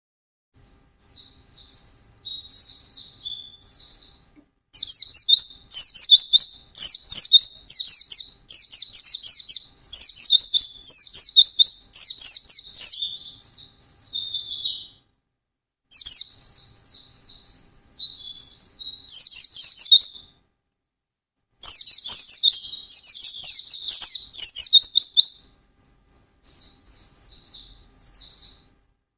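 A white-eye (pleci) in full song, running through long, fast strings of high twittering notes. The runs are broken by a few short pauses. This is the rapid, continuous 'ngalas' song that keepers prize in a bird in top singing form.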